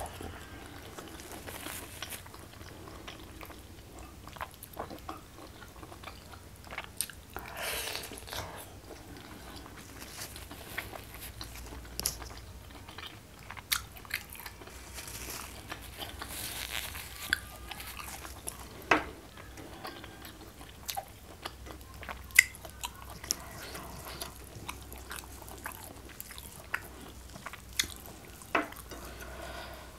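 Close-miked chewing and biting of a mouthful of rice and side dishes eaten by hand, with many short sharp clicks and crunches.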